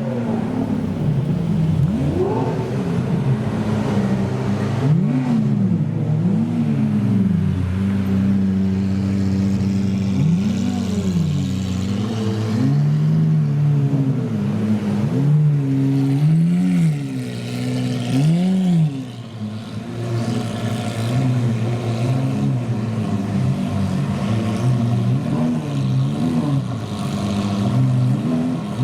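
Supercar engines running with repeated throttle blips, the revs rising and falling back over and over.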